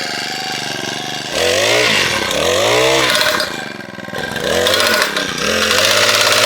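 Small petrol engine revved up and down three or four times, its pitch rising and falling with each blip of the throttle, then settling into a steady run near the end.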